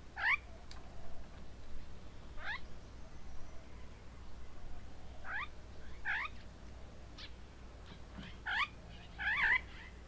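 A bird giving short, harsh, meow-like calls, one every few seconds at first, then closer together near the end.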